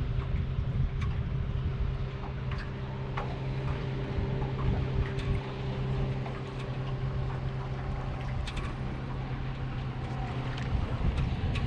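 Wind buffeting the microphone over a steady low hum from the boat's motor. A higher part of the hum stops about eight seconds in.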